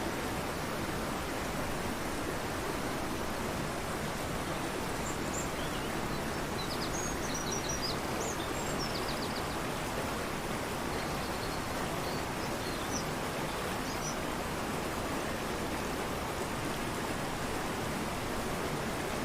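Fast-flowing mountain river rushing steadily, with faint, brief high bird chirps scattered through the middle.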